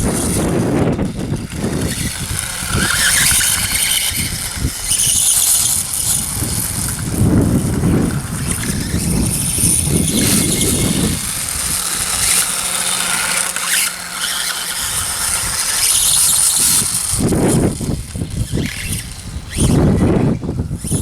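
Battery-powered Reely RC dirt bike being driven: its electric motor and drivetrain whine, rising and falling as the throttle changes, over a rough rumble.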